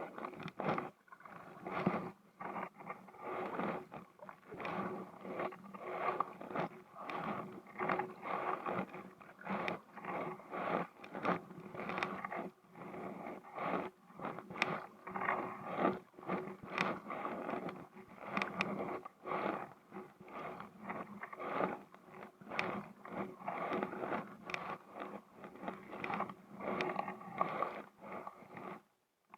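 Paddling a Sea Eagle SE370 inflatable kayak: repeated paddle strokes splashing in the water and scraping on the hull, about one stroke a second.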